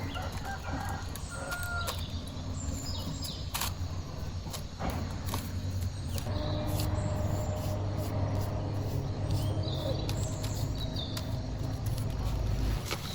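Outdoor farmyard sounds: birds and chickens giving many short, scattered calls over a steady low hum, with a few sharp knocks.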